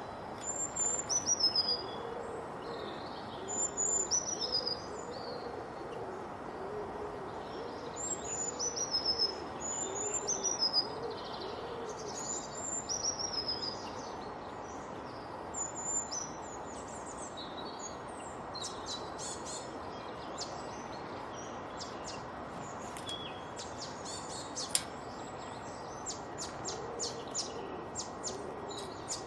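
Several birds calling together over a steady background hiss. Clear high whistled phrases fall in pitch and repeat every second or two, with a low repeated hooting or cooing underneath. In the second half, quick high chirps take over.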